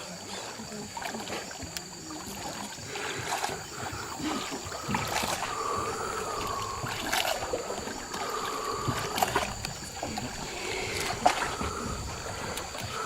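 Small boat being paddled on water, with paddle splashes and knocks against the hull, under a steady high insect drone.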